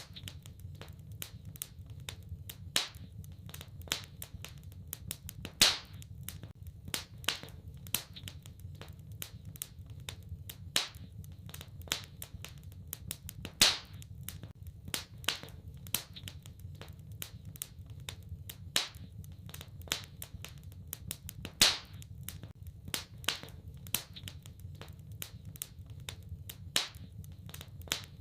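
Wood fire in a fireplace crackling: sharp, irregular pops and snaps, some much louder than the rest, over a steady low rumble.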